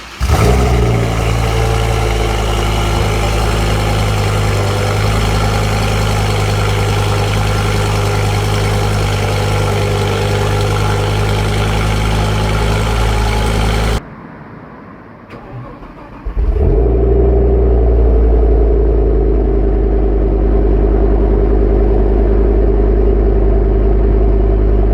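Audi RS6 C6's 5.0-litre twin-turbo V10 starting and settling into a steady idle. It cuts off about 14 seconds in, and a couple of seconds later is started again and idles steadily.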